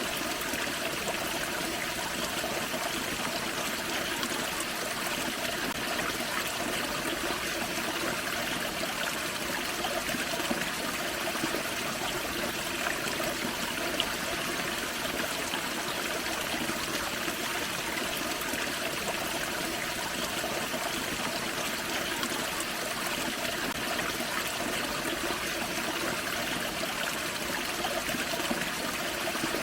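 A small waterfall on a forest creek, water splashing and trickling steadily over rocks.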